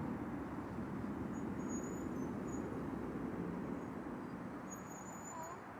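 Distant jet aircraft rumble, slowly fading away, with faint bird chirps above it.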